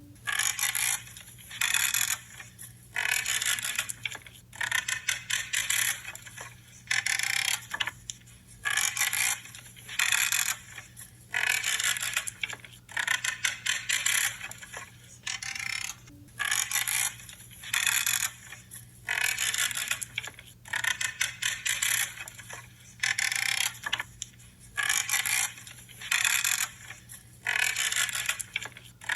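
Branches being cut with hand pruning shears: a creaking, crunchy cut made of many fine crackles, repeated about once a second as each stem is snipped.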